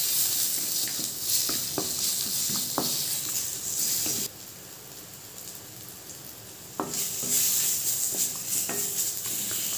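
Sun-dried mango pieces sizzling in hot mustard oil in a metal kadai, with a metal spatula scraping and knocking against the pan several times as they are stirred. The sizzle drops away abruptly for about two and a half seconds in the middle, then comes back.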